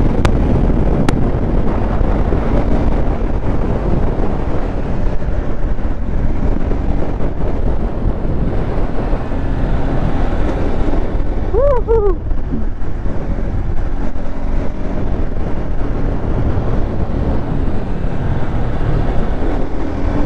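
Bajaj Pulsar RS 200 motorcycle running at speed, its engine under heavy wind noise buffeting the microphone. A short wavering tone rises and falls about twelve seconds in.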